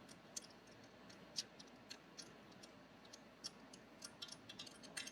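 Faint, irregular light clicks of a hand tool working a small bolt loose, more of them close together near the end.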